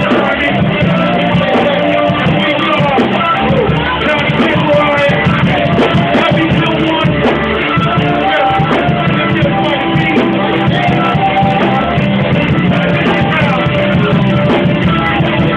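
Live band playing continuous guitar-led music with singing over it.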